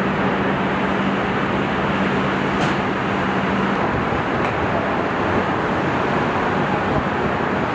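Truck assembly-line factory noise: a steady loud roar of machinery with a low hum that stops a little under four seconds in, and a brief sharp click near the three-second mark.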